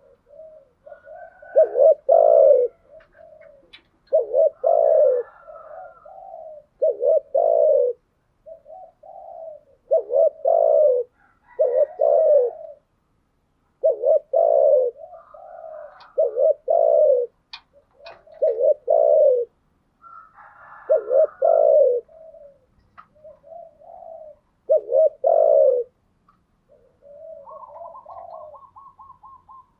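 Spotted doves cooing, one loud cooing phrase about every two seconds. Near the end a faster, higher rolling series of notes comes in.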